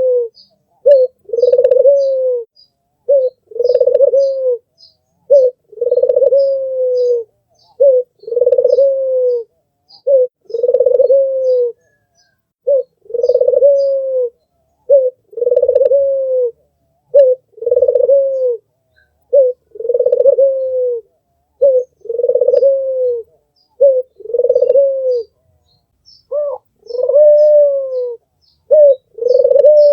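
White (albino) Barbary dove (puter) cooing over and over, about once every two seconds. Each coo is a short note and then a longer one that drops in pitch at the end. Faint high chirps sound in the background.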